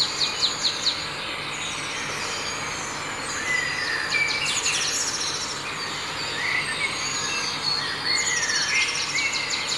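Birds chirping, with several fast trills and short whistled notes over a steady background hiss.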